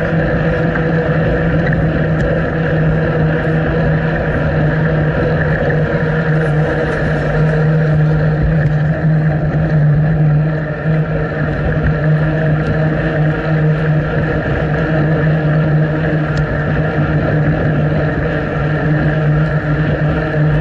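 A steady, loud droning hum, one low pitch with fainter overtones, over a rushing noise, as from travel in motion.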